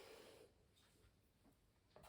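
Near silence: room tone, with a faint brief rustle in the first half second.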